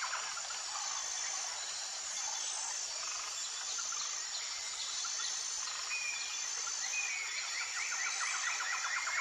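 Tropical forest ambience: a steady, high-pitched insect chorus with short repeated notes on top. About six seconds in, a fast trilling animal call joins it and continues.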